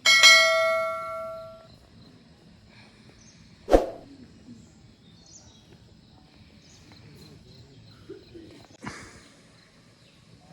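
A single bell-like metallic ring that dies away over about a second and a half, followed by two sharp knocks, the first loud and the second softer, some seconds apart.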